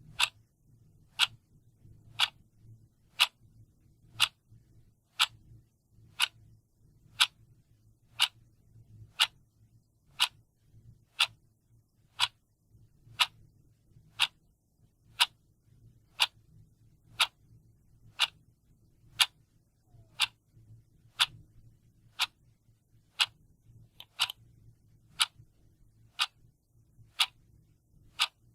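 Clock ticking steadily, one sharp tick per second.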